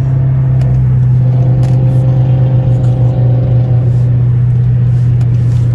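Car engine and exhaust droning steadily while driving at a constant speed, one low even note throughout.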